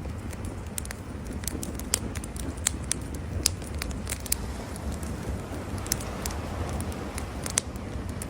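Wood campfire crackling, with irregular sharp pops a few times a second over a low steady rumble.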